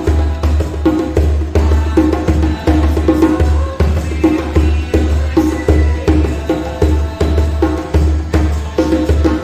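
Djembe played in a steady, repeating hand-drum rhythm with deep bass strokes pulsing through it.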